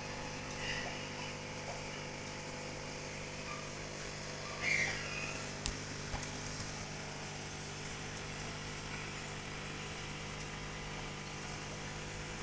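Two short, high chirps from a conure parrot, one about a second in and one near the middle, over a steady mechanical hum, with a single sharp click just after the second chirp.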